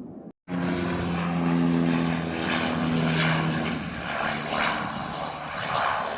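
Loud engine noise of a low-flying airplane, starting abruptly after a brief cut, with a steady hum that fades out after about three seconds while the engine noise carries on.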